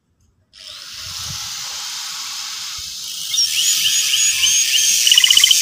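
Silence, then a steady hiss starts about half a second in; from about three seconds a domestic canary chirps over it with a run of short repeated rising 'cuit' notes and high peeps, breaking into a rapid trill near the end.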